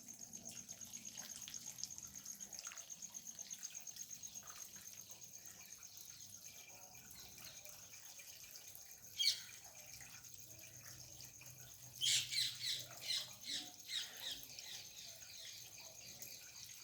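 Parrot squawking: one sharp falling call about nine seconds in, then a quick run of five or six loud squawks a few seconds later.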